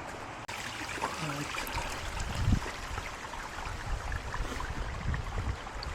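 Small mountain stream flowing with a steady rushing hiss, with a few low thumps, the loudest about two and a half seconds in.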